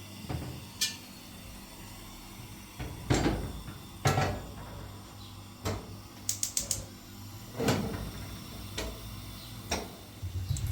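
Objects being handled and set down: scattered knocks and clatters about once a second, with a quick run of about five light clicks a little past the middle.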